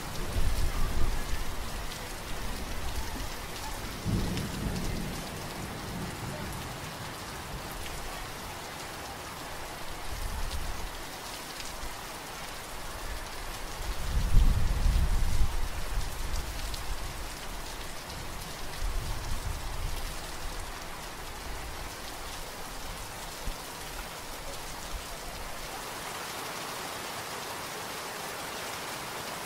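Steady rain with low thunder rumbling in several times, the loudest about halfway through; the rumbling fades away near the end.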